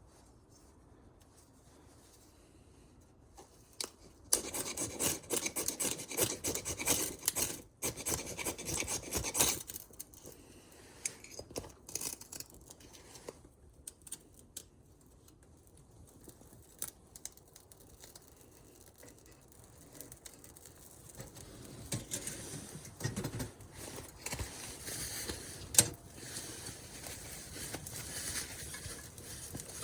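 Knife blade scraping and shaving dry wood in repeated strokes, in two spells with a quiet stretch between, and a single sharp click near the end.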